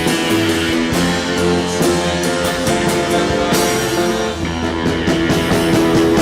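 Live rock band playing an instrumental passage with guitar and drum kit, steady and loud, at the close of a song.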